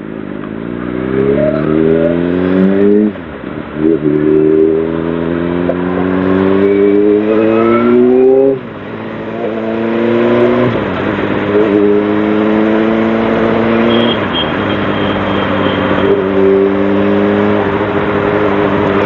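Honda CBR600RR inline-four engine pulling up through the gears: its pitch climbs and drops sharply at upshifts about 3, 8½ and 11 seconds in, then holds fairly steady at cruising speed. Wind noise runs under it.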